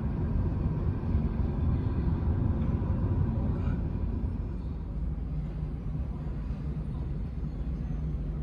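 Low, steady rumble of a jet airliner's engines heard from a distance, easing slightly about halfway through.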